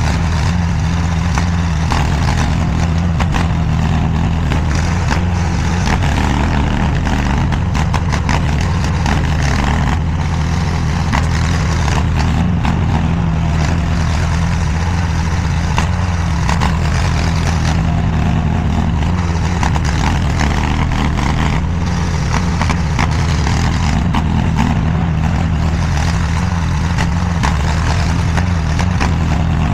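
Engine of a DIGGIT SCL850 stand-behind mini skid steer running steadily at an even speed, with frequent short clanks and rattles over it.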